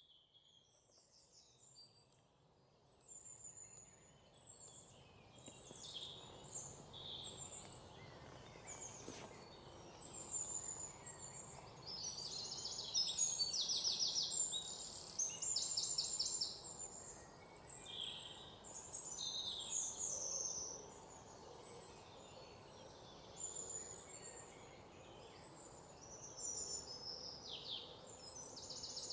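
Small songbirds chirping and trilling, several calls overlapping, over a faint steady hiss.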